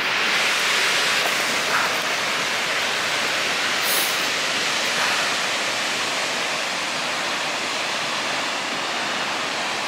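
Steady, loud rush of Skógafoss waterfall's falling water.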